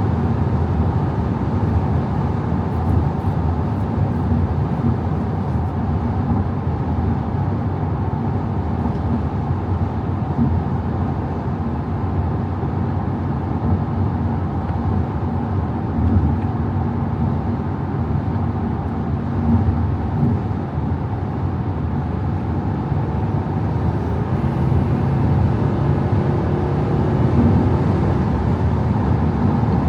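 Audi A5 50 TDI's 3.0 V6 diesel engine running steadily while driving at speed, with a constant hum of road and wind noise.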